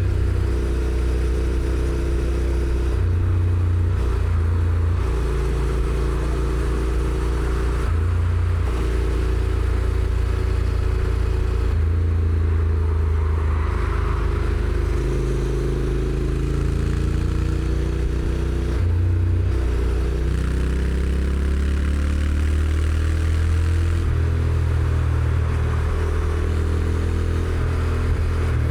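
Honda NC750X's parallel-twin engine on its stock exhaust, heard from the rider's seat while riding. Its pitch steps up and down several times as the dual-clutch gearbox changes gear, with a smooth climb about twenty seconds in, over steady road and wind noise.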